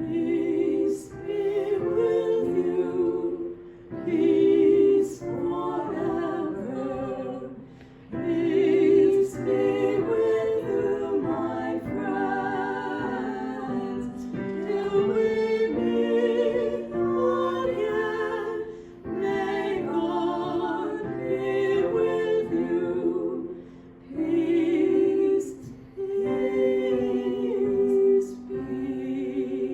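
Singing with instrumental accompaniment: voices with vibrato sing phrases a few seconds long over held low notes, with brief breaks between phrases.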